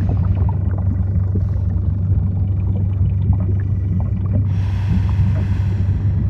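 Underwater ambience: a steady deep hum with scattered faint crackling clicks. About four and a half seconds in, a rushing hiss joins briefly.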